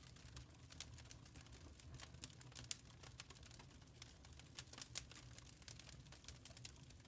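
Faint wood fire crackling in a fireplace: many small irregular pops and snaps over a low steady rumble of the flames, with a couple of sharper pops, one about two and a half seconds in and one about five seconds in.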